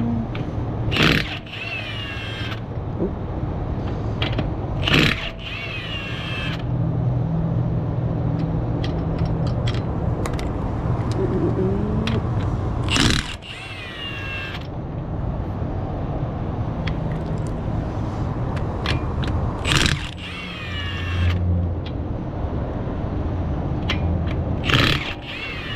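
Impact wrench on a 21 mm socket hammering the lug nuts off a wheel, five short bursts, each trailing off in a falling whine as the tool spins down. A steady low engine hum runs underneath.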